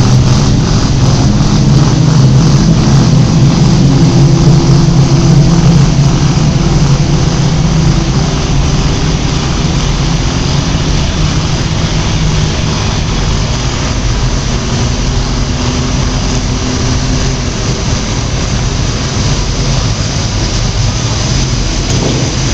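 JCB TM310's diesel engine running hard under load during a tractor pull, loud and steady, easing off to a lower, even running level after about eight seconds.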